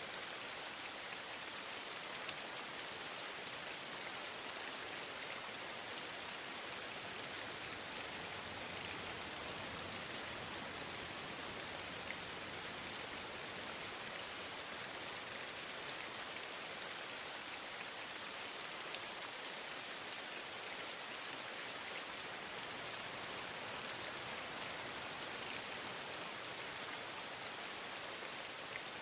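Steady rain falling, with scattered faint ticks of drops.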